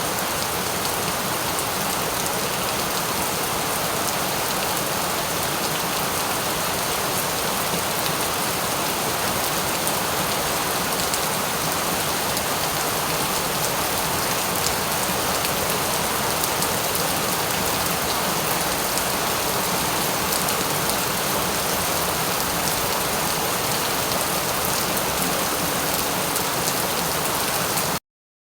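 Steady rain falling: an even hiss of countless drops with fine ticks through it. It cuts out to silence for about half a second near the end.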